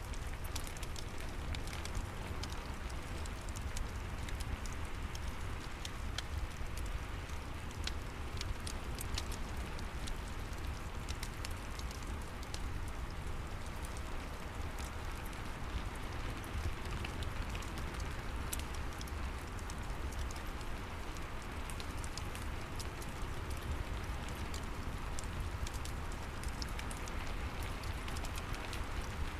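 Steady rain mixed with the scattered pops and crackles of a wood fire in a fireplace, over a deep, even rumble.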